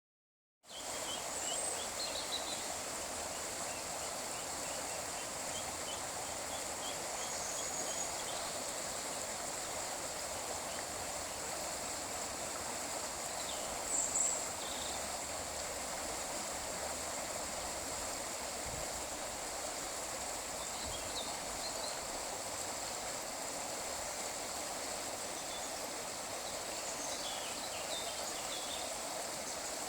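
Water pouring over a river weir in a steady, even rush. A few short high chirps sound now and then above it, the loudest about fourteen seconds in.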